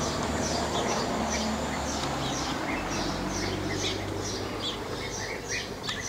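Birds chirping: many short, high calls overlapping and repeating, over a low steady hum.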